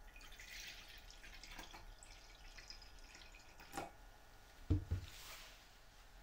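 Liquid hissing and dripping, with a sharp click and two dull knocks about three-quarters of the way through.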